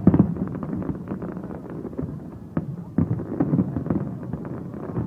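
Fireworks bursting overhead: a quick run of bangs and crackles, loudest just at the start, with more loud bursts about two and a half to three seconds in.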